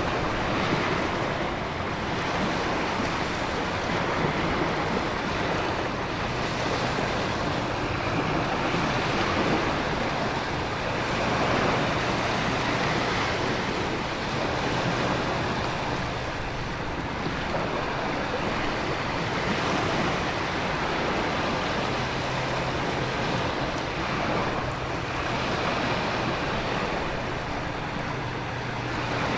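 Storm ambience: ocean surf and wind with heavy rain, a dense, steady rush that swells and eases gently every few seconds.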